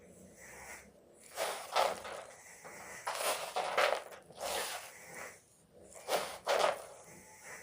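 Gym chalk block being crushed, crunching in about seven short bursts with brief pauses between them.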